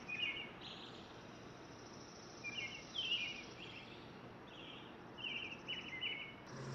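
Short, buzzy chirping calls of small birds, repeated about every second at slightly varying pitches over a faint steady outdoor hiss.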